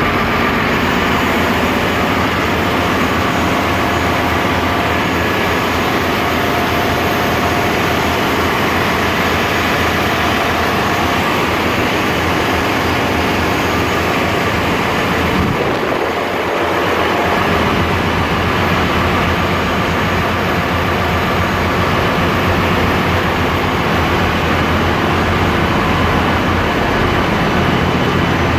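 Loud, steady din of a bulk carrier's engine room machinery, a dense rumble with steady hums running through it. About halfway through, the deep rumble drops away briefly, then returns.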